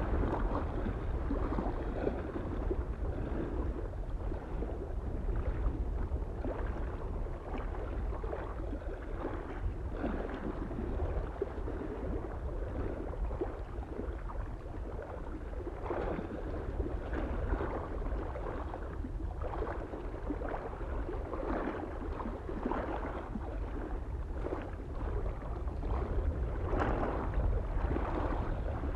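Small waves lapping irregularly against a lake shore, with a soft wind rumbling on the microphone.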